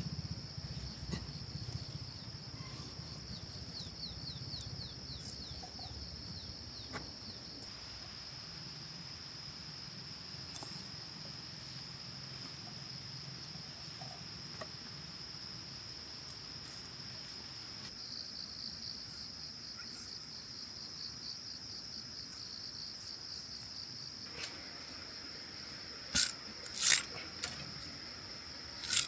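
Insects chirring in a steady high-pitched drone that pulses rapidly at times, typical of crickets in a rice field. A few sharp clicks sound near the end.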